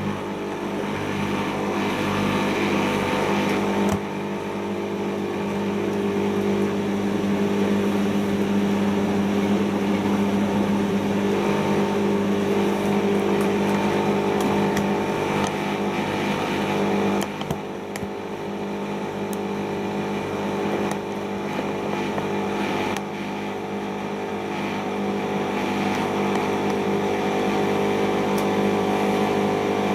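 Siemens iQ front-loading washing machine spinning its drum at speed during the intermediate spin of a cotton cycle: a steady motor whine with the drum's rumble, dipping briefly about 17 seconds in.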